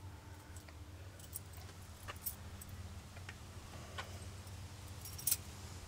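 Faint, scattered metallic clicks and jingles of a set of spare keys being handled, the loudest near the end.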